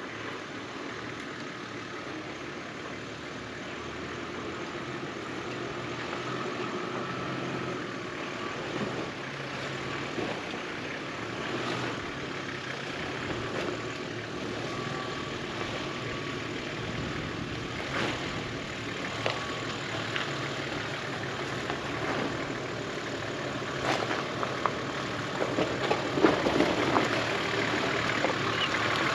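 4WD engine running at low revs as the vehicle crawls over a rocky track, with scattered knocks and clatters from the rocks and suspension that become busier near the end.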